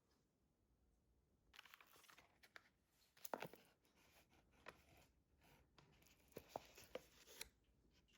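Faint handling noises: light rustling with scattered sharp clicks and taps, starting about a second and a half in, the sharpest a little past three seconds.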